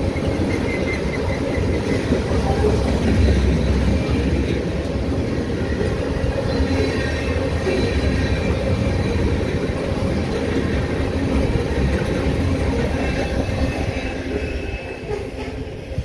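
Empty railroad tank cars of a freight train rolling past: a steady rumble of wheels on rail, with faint high wheel squeal through the middle. The noise dies away over the last couple of seconds as the end of the train goes by.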